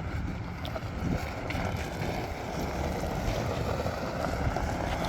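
Wind buffeting the microphone, a steady rushing noise over a low rumble.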